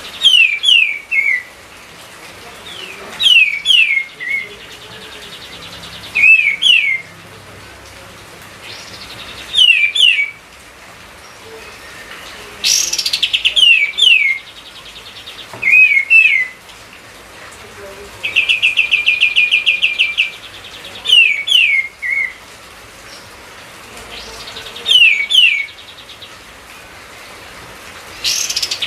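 Kapas tembak songbird singing vigorously: short phrases of two or three quick falling whistles, repeated about every three seconds, with a longer rapid trill a little past the middle.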